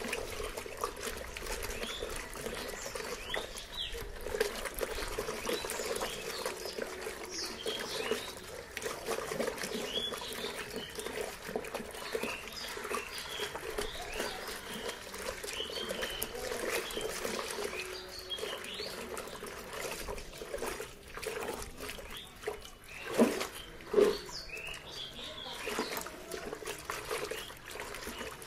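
Water sloshing and trickling in a bucket as clothes are swished left and right by hand, with two louder splashes about 23 and 24 seconds in.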